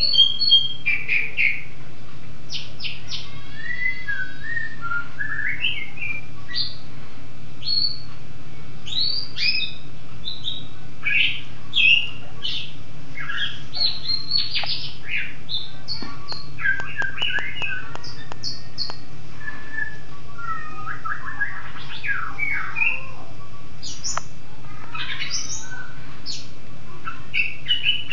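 Songbird singing a fast, varied run of chirps, trills and whistled notes, over a steady low hum.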